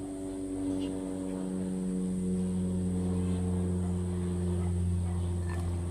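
A steady low electric hum, like a running motor or appliance, with a faint high whine above it.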